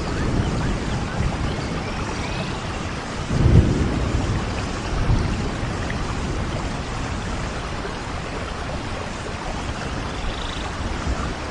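Steady rain with low thunder rumbles, the strongest about three and a half seconds in and a weaker one soon after.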